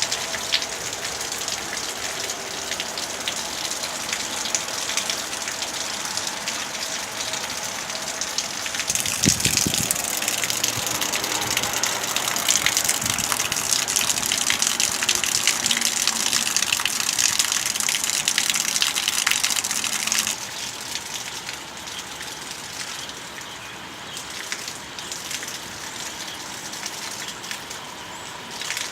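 Rain falling, a dense patter of drops. It grows heavier about a third of the way in and eases to lighter rain about two-thirds of the way through.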